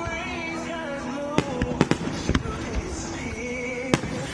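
Fireworks shells bursting in sharp bangs, about five of them, with a pair close together near the middle and a loud single bang near the end. Recorded music with a melody plays over loudspeakers throughout, the show's soundtrack that the bursts are timed to.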